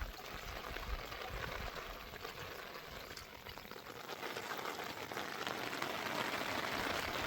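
Heavy rain falling steadily, an even hiss that grows louder from about halfway through, with some low rumbling in the first couple of seconds.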